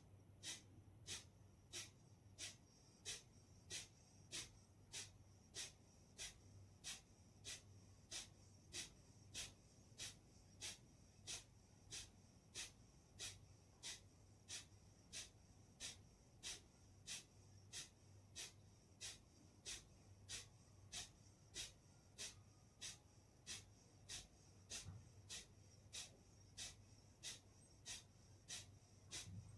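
Kapalbhati pranayama breathing: short, forceful exhalations through the nose in a steady, even rhythm of about three every two seconds, over a faint low hum.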